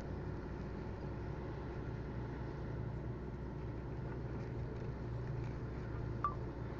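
An engine running steadily, a constant low hum, with one short sharp click about six seconds in.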